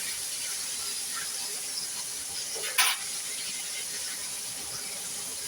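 Chicken thighs frying in hot grease: a steady sizzle, with one sharp clack about three seconds in.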